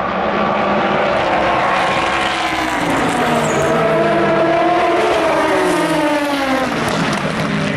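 Endurance racing car engines at speed passing on the circuit, several engine notes overlapping, rising in pitch through the middle and then falling away as the cars go by.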